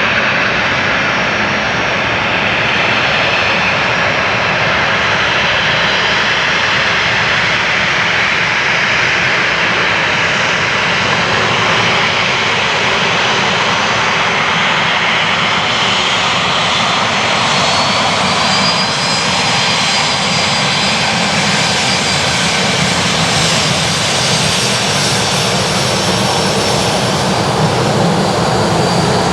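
Boeing 737-800's CFM56 jet engines running loud and steady. A high whine comes in about two-thirds of the way through.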